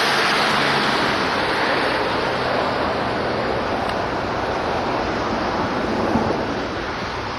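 Steady rushing road noise of vehicle tyres on wet, salted, slushy streets, easing slightly toward the end.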